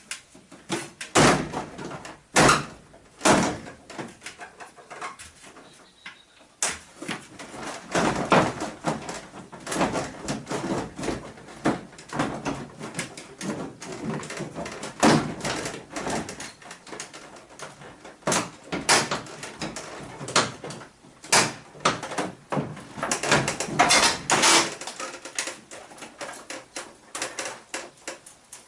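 Irregular knocks, clacks and scraping, like hard objects being handled and set down, with several sharp louder impacts spread through.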